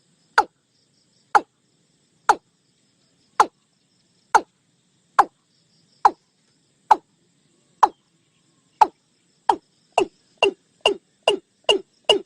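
Watercock (Gallicrex cinerea) calling: a series of short, falling notes about one a second, speeding up to about two or three a second near the end.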